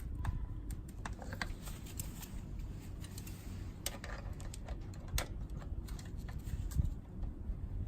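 Irregular light clicks and taps of hand tools and metal parts being handled while working on a motorcycle engine cover, over low handling rumble.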